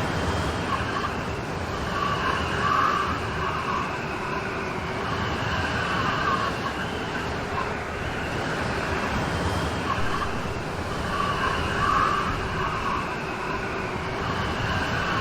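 Steady rain falling in a storm, an even hiss, with a faint wavering tone in it that swells twice, about nine seconds apart.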